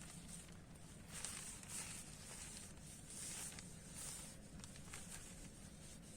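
Faint rustling and scuffing, in several short bursts.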